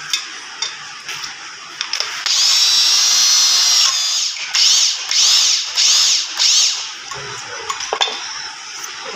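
High-speed handheld power tool polishing diesel-engine valve seats. It gives a high whine for about two seconds, then runs in four short bursts whose pitch dips as the tool loads up.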